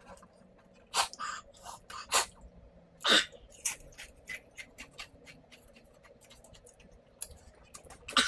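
Crunchy tortilla chips being chewed: irregular crisp cracks, the loudest about one, two and three seconds in, thinning to faint crackles after that.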